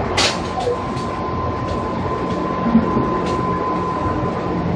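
JR 205 series electric train with outer-fan traction motors running steadily: continuous wheel and motor rumble, a sharp clack about a quarter second in, then a steady high whine.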